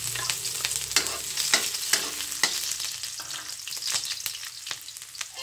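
Chopped onion and garlic sizzling in hot oil in an aluminium wok, with a steady hiss and many sharp clicks and scrapes as a spatula stirs them against the pan.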